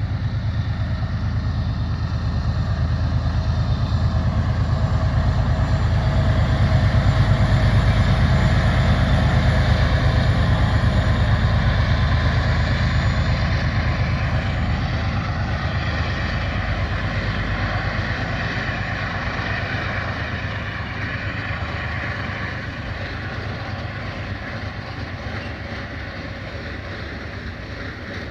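Freight train passing: a heavy, steady low rumble of the train on the rails that grows loudest about a third of the way in and then slowly fades.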